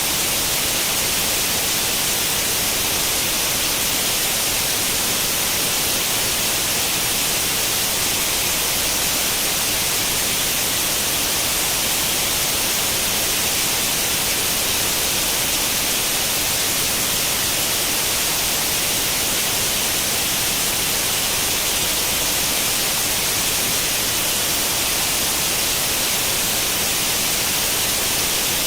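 Steady white-noise hiss imitating the static of an old tube television tuned to no channel, brighter in the high end and unchanging throughout.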